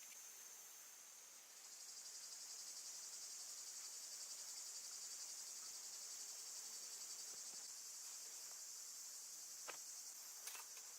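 Faint, steady high-pitched chorus of insects chirring, growing louder about a second and a half in, with a few light clicks near the end.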